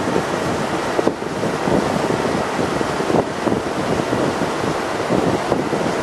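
Wind buffeting the microphone on a moving river cruise ship's deck, mixed with the rush of water along the hull: a steady, dense noise with irregular gusty flutter.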